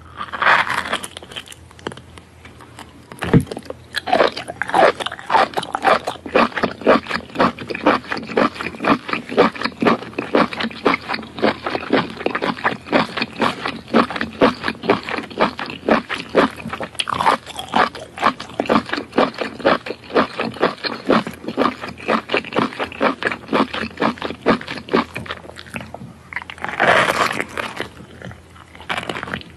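Close-up chewing of a geoduck clam's siphon: a steady run of crunchy bites and chews, about three a second. Louder bites into it come about a second in and again near the end.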